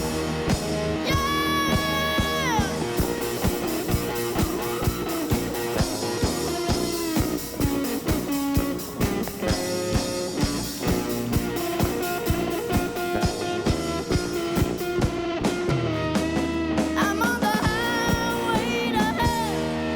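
Live rock band playing: distorted electric guitar over a steady, driving drum beat, with held, bending lead notes in places.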